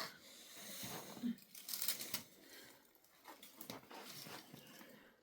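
Faint, irregular rustling and crinkling with a few sharp clicks.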